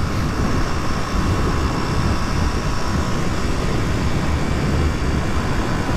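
Steady wind rush over the microphone while riding a Suzuki DR250S, with the single-cylinder engine running at a constant road speed underneath.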